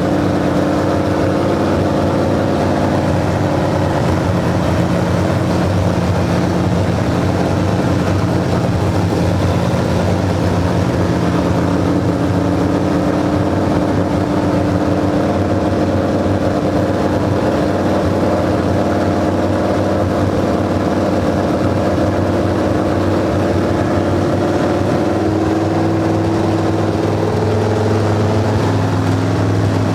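Newly installed race car engine running steadily at idle, its speed shifting slightly a couple of times.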